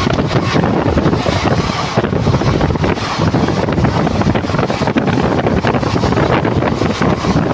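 A moving train running: a loud, steady rumble with irregular rattling, and wind buffeting the microphone.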